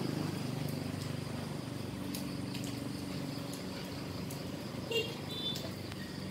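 A motor running steadily with a low, evenly pulsing hum; a few short high chirps sound about five seconds in.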